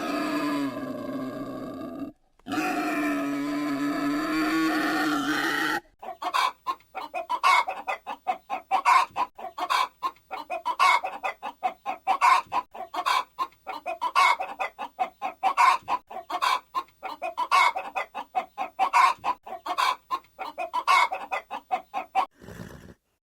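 Chickens clucking: a long run of short, rapid clucks that starts about six seconds in and stops abruptly near the end. Before it, another animal gives two long, wavering, pitched calls, with a short break between them.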